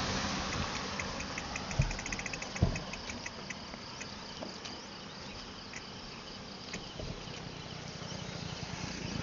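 Insect chirping: a rapid run of high, sharp clicks that speeds up and then thins out after a few seconds. Two low thumps sound about two and three seconds in.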